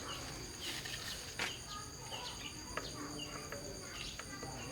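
Steady high-pitched insect drone, with short bird chirps and a few light clicks scattered through.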